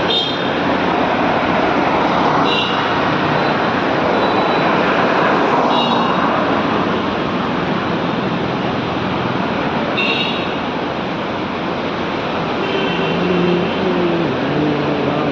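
Steady traffic noise, with a few brief high-pitched chirps and, in the last few seconds, a low tone that steps up and down.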